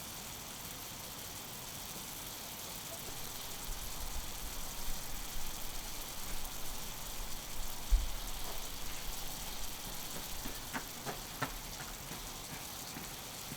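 Steak sizzling on an iron griddle, a steady hiss, with a low uneven rumble from about four seconds in, a single thump near the middle, and a few light clicks near the end.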